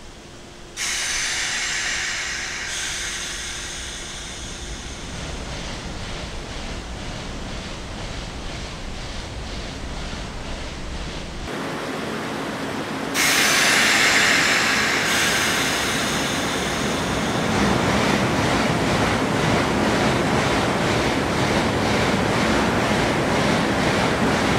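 JR 185 series electric train pulling out of the station: traction motors and wheels running on the rails, with fine regular clicking through the second half. A loud rush of noise starts suddenly about a second in, and again about halfway through.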